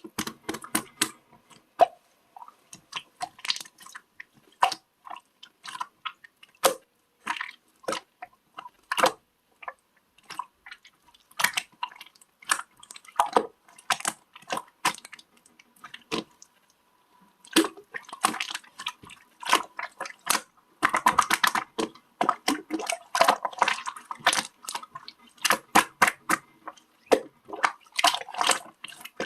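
Slime being squeezed, stretched and poked by hand, giving irregular sticky clicks, crackles and small air-pocket pops that come thickest about two-thirds of the way through and again near the end.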